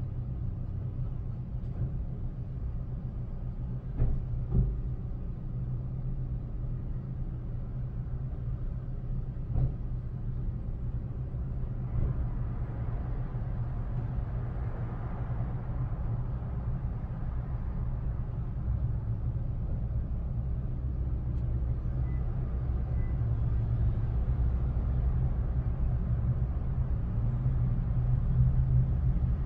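Steady low engine rumble, with a few brief knocks about four, ten and twelve seconds in.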